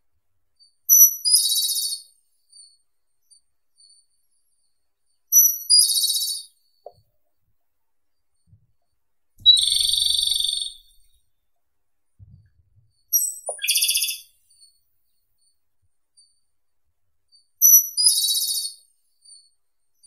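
Japanese robin (Erithacus akahige) singing: five short high-pitched phrases about four seconds apart, each opening with a brief high note and running into a fast rattling trill.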